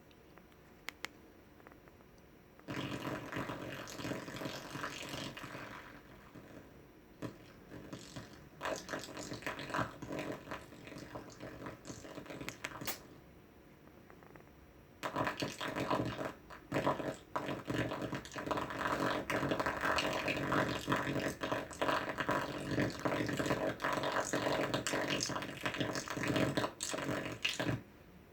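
Harsh, buzzing, crackling sound from the Weemax A300, the faulty sound it is shown for. It comes in three stretches: a short one about three seconds in, a broken one in the middle, and a long one from about halfway to just before the end.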